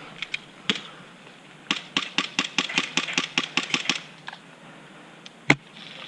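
A quick, even run of small mechanical clicks, about six a second for a couple of seconds, then a single sharp shot from an Action Army AS01 bolt-action spring airsoft sniper rifle about five and a half seconds in.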